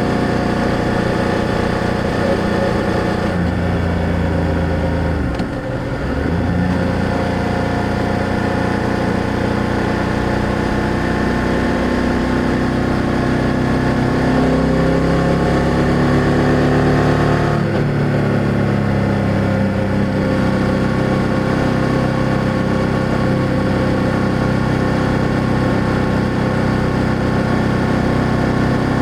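BMW F800GS parallel-twin motorcycle engine and exhaust running under way. The revs dip and recover about five seconds in, climb to a shift near the middle, then hold steady as the bike cruises.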